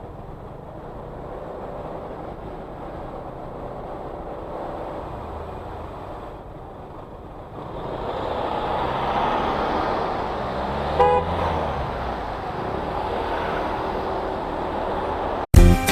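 Road noise from a 125cc motorcycle on the move, engine and wind on the helmet microphone, growing louder about eight seconds in. A short horn beep sounds about eleven seconds in. Music cuts in abruptly at the very end.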